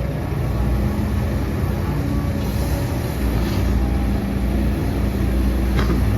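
Heavy diesel earthmoving machinery running steadily with a low engine drone, and a brief high squeak near the end.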